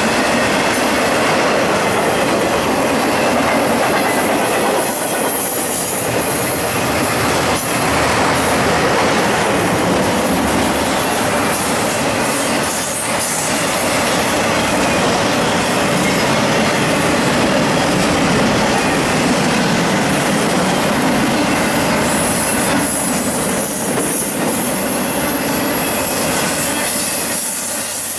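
Intermodal freight cars carrying highway trailers and double-stacked containers rolling past at speed: a loud, steady noise of steel wheels on the rails that does not let up.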